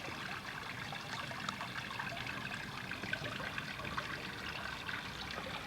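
Steady trickling of running water, with faint scattered ticks.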